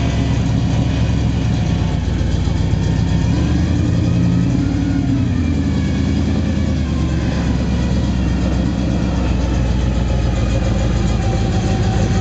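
Big-block Ford V8 in a 1949 Studebaker pickup running steadily, with a brief rise and fall in pitch about four to six seconds in.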